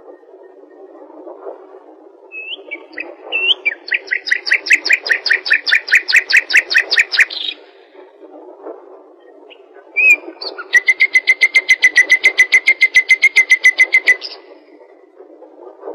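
A bird singing two long, rapid trills, about six or seven notes a second, each lasting three to four seconds, over a low steady hiss.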